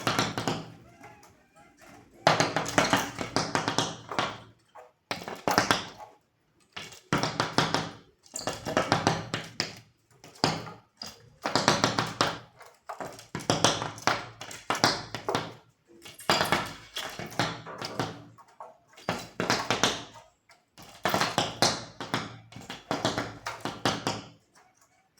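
A bird pecking hard and fast at a window pane, striking its own reflection as if at a rival, in rapid bouts of taps on the glass lasting one to two seconds, with short pauses between them.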